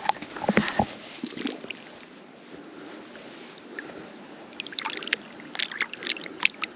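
River water sloshing and trickling at the edge of the bank, with scattered clicks and knocks about half a second in and again in a cluster near the end.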